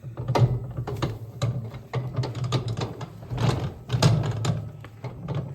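Emptied metal wheelbarrow rattling and knocking as it is handled after tipping out a load of hay: a run of irregular sharp clatters.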